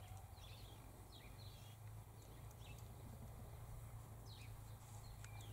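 Faint bird chirps: several short, falling calls scattered through near silence, over a steady low hum.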